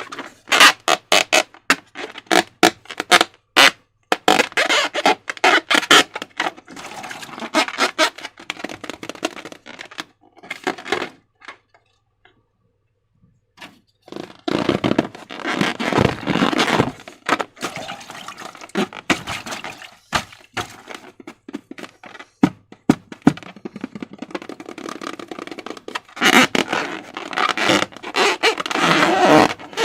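Slime being squished, stretched and handled, making sticky clicks, pops and squelches in irregular runs, with a pause of about two seconds near the middle.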